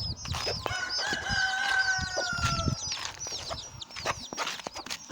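A rooster crows once, a long call held for about two seconds and sagging slightly in pitch, starting about a second in. Around it are chicken clucks, many quick high chirps and scattered knocks.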